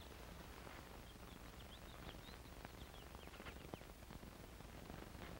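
Near silence: faint, high bird chirps scattered throughout over a low hum and hiss, with a few faint ticks.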